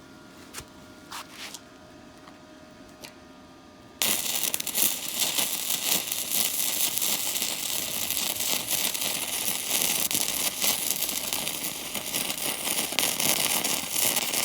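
YOTUKA YS-MIG100 MIG welder: a steady hum with a few clicks, then about four seconds in the arc strikes and a loud, continuous crackling sputter of the weld runs on.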